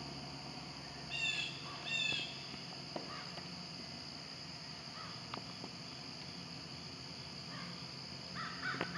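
A bird calls twice in quick succession, short harsh calls about a second and two seconds in, and starts calling again near the end. A steady high-pitched buzz, typical of insects, runs underneath.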